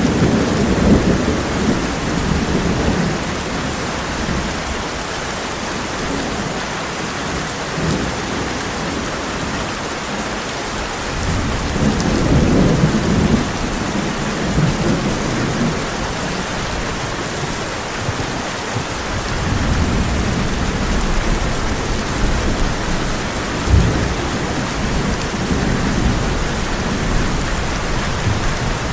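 Heavy rain drumming steadily on a tin roof, with thunder rolling in three low rumbles: one at the start, one about twelve seconds in, and a longer one in the last third, which holds a sharp crack.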